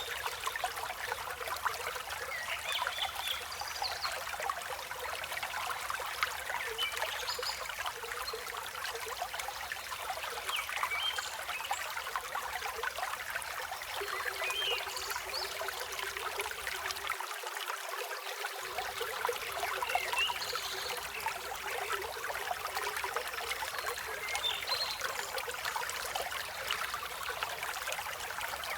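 River water flowing steadily, with scattered short bird chirps above it.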